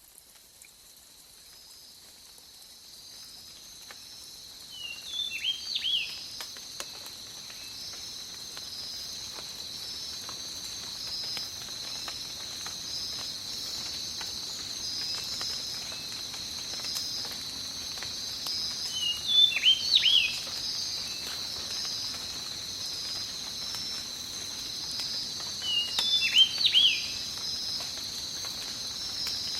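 Rainforest ambience: a steady, pulsing high insect chorus that fades in over the first several seconds, with a faint patter of rain beneath. A bird gives short clusters of whistled calls three times, about 5, 19 and 26 seconds in.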